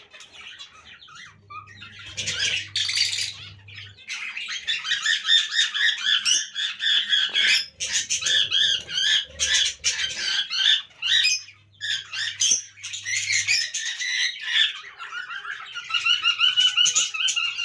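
Pet lovebirds chattering with a rapid mix of high chirps and squawks, in busy bursts with short pauses; near the end it settles into a fast run of repeated chirps.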